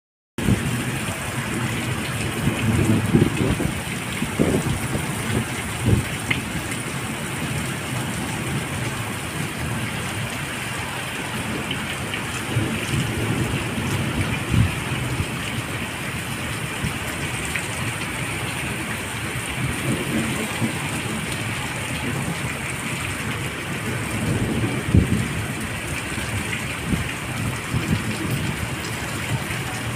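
Heavy monsoon rain pouring steadily onto a concrete street, with low rumbling swells now and then.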